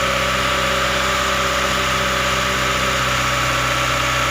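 SsangYong car engine idling steadily while catalytic-converter cleaning fluid is drawn into the intake through a vacuum hose and burned in the engine.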